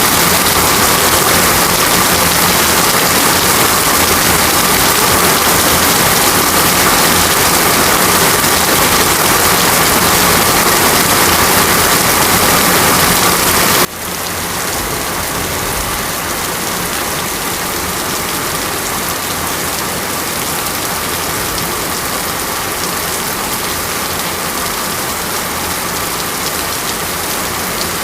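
Steady heavy rain falling, an even hiss with no breaks. About halfway through the level drops suddenly and the rain goes on softer and duller.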